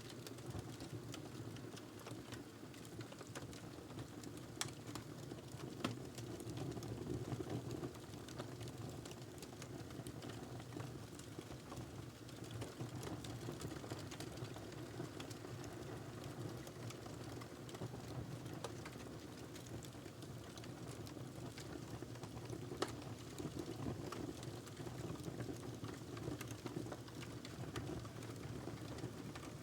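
Wood fire burning in a fireplace: a steady low rush of flames with constant small crackles and a few sharper pops.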